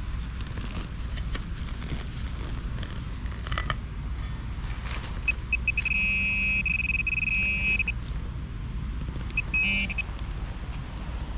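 Metal detecting pinpointer buzzing with a high pulsing alert tone for about two seconds, then a few short beeps, as it finds a target in the dirt. Heavy wind rumbles on the microphone throughout.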